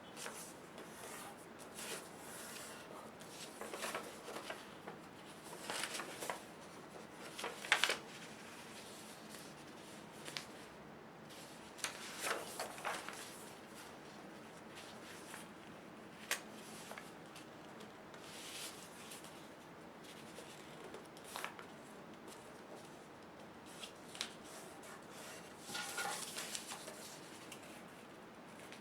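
A sheet of paper being handled, folded and creased by hand: irregular rustles and short swipes, the loudest about eight seconds in.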